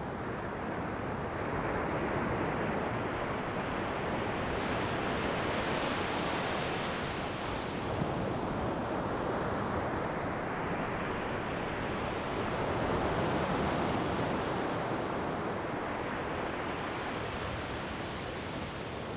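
Ocean surf breaking and washing in: a steady rushing hiss that swells and brightens twice, as two waves surge up and ebb.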